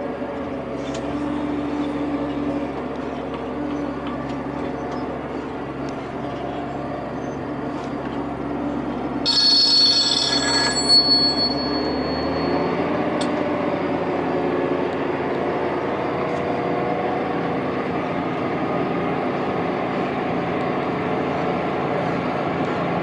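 Large farm tractor engine running steadily under load. About nine seconds in, a brief high-pitched ringing sound lasting about two seconds is the loudest thing.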